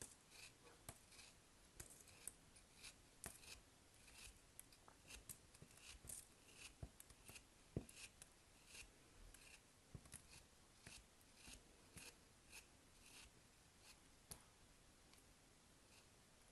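Faint, crisp snipping strokes of a cutting blade, about two a second, thinning out near the end.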